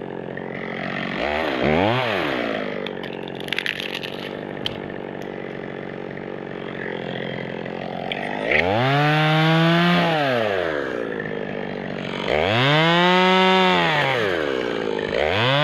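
Two-stroke chainsaw idling, then revved up from idle and let back down several times: a quick blip near the start, two long high-pitched revs in the second half, and a third starting at the end. A few sharp clicks come during the idle.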